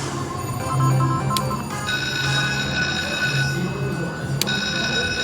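Slot machine's electronic game music with ringing, bell-like tones. A quick run of short stepped blips comes first, then a held ringing chord from about two seconds in that breaks off briefly and returns about four seconds in.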